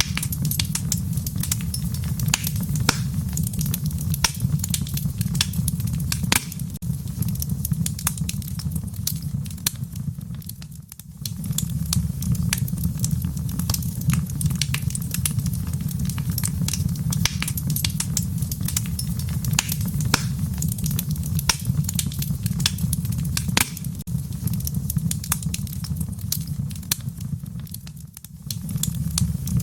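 Fire burning in a fireplace: dense, steady crackling and popping over a low rumble, dipping briefly twice.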